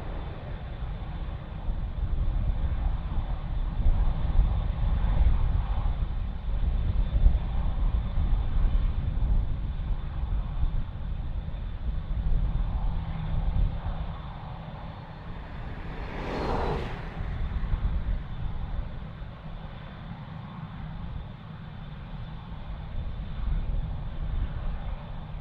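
Jet airliner engines rumbling low and steady, with a brief whoosh about two-thirds of the way through.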